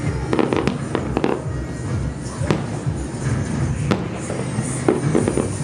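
Aerial firework shells bursting: a run of sharp bangs and crackles, in clusters about half a second in and again near the end, with single bangs between. Music plays steadily underneath.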